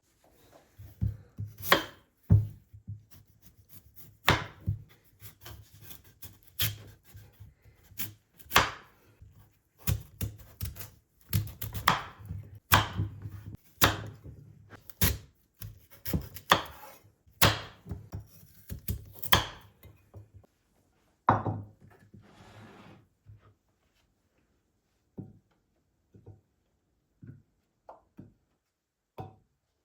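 Knife chopping food on a cutting board in irregular strokes about once a second, stopping about twenty seconds in, followed by a few light, scattered taps.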